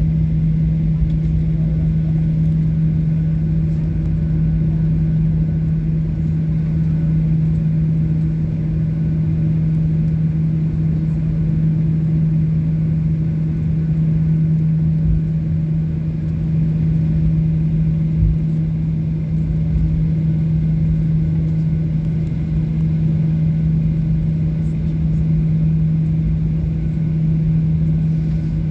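Steady drone of a Boeing 737-800's CFM56 jet engines heard from inside the passenger cabin, with a strong low steady hum over rumble and rushing air noise.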